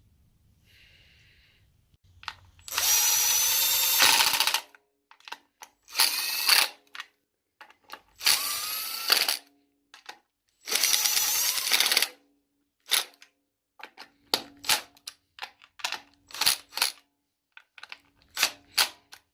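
Power drill running in short bursts, its motor whining up in pitch at the start of each. There are four bursts of one to two seconds, then a quick string of brief trigger blips near the end, typical of driving in bolts.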